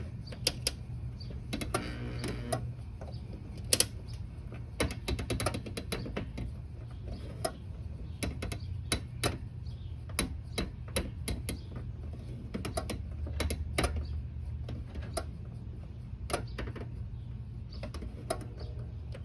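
Air conditioner running with a steady low hum, under frequent irregular clicks and taps.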